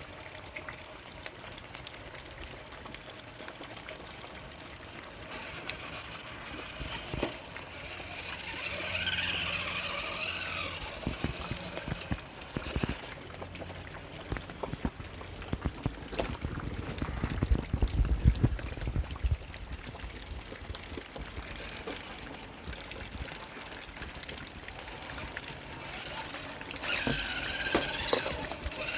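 Radio-controlled rock crawler's brushed Hobbywing Fusion motor and drivetrain whining quietly at slow crawl speed as it climbs, the whine rising twice. Rain trickles throughout, and there are a few low thuds about halfway through.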